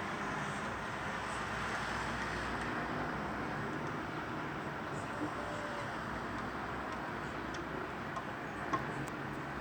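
Steady background rumble and hiss, with a short click about five seconds in and another near the end.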